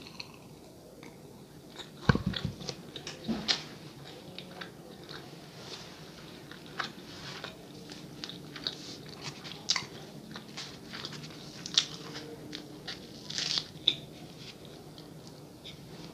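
Close-miked chewing of soft bread, with many short wet mouth clicks and crackles, after a sharp knock about two seconds in.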